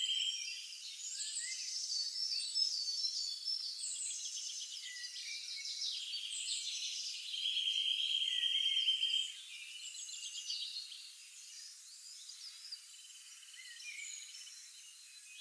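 A chorus of wild birds chirping and singing, thin with no low sounds beneath it. A steady buzzing trill about two seconds long sounds at the very start and again in the middle. The chorus gets quieter and sparser in the last third.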